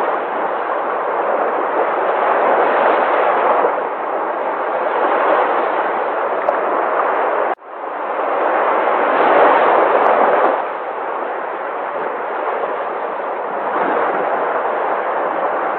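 Sea waves breaking and washing, a steady rush that swells and eases every few seconds. About halfway through, the sound cuts out for a split second and then surges back.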